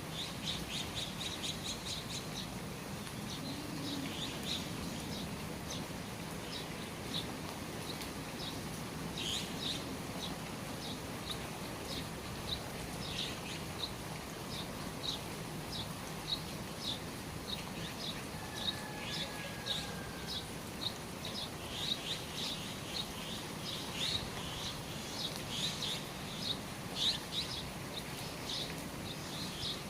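Small birds chirping in quick short notes, about one or two a second, over the steady hiss of rain falling under the eaves.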